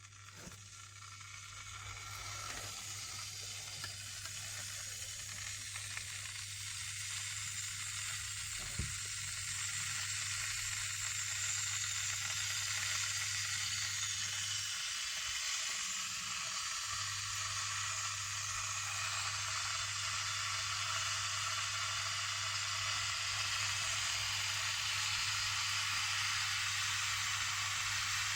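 Zilan glass electric kettle heating water: a sizzling hiss that grows louder over the first ten seconds or so, then holds steady as the water nears the boil, over a low steady hum.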